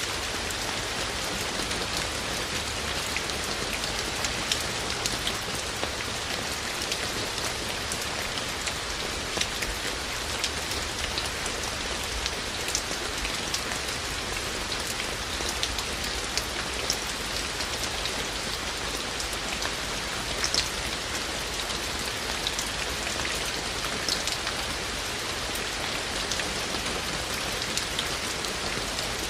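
Steady rain falling and pattering on surfaces, with scattered individual drips ticking through it.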